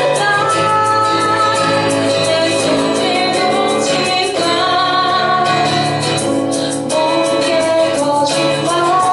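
Live band music: a woman singing a held, wavering melody over instrumental accompaniment that keeps a steady strummed or struck rhythm.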